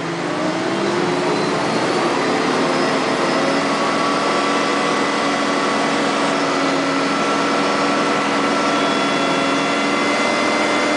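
A heavy machine's engine and drive being brought up to working load: the pitch climbs in the first second or two, then the machine runs steadily with several whining tones. This is the noise that shows only under load, which the owner takes for a turbocharger noise.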